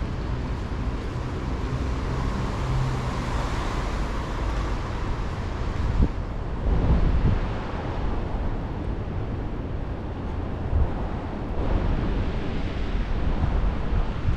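Strong gusty wind rumbling on the microphone over the hiss of rain and street traffic noise, swelling in gusts.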